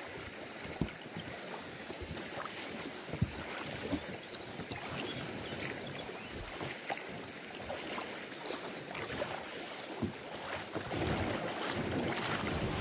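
Wind on the microphone and water sounds around a kayak pulled up at the shore, with a few scattered light knocks.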